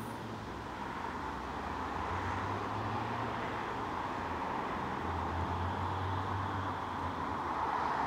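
A regional train fading into the distance as it pulls away, mixed with steady road traffic noise from the road running beside the line. The traffic noise swells slightly near the end.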